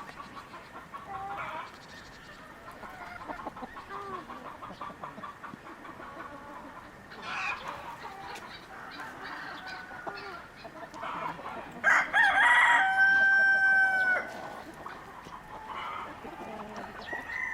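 Chickens clucking, with a rooster crowing loudly once about two-thirds of the way through.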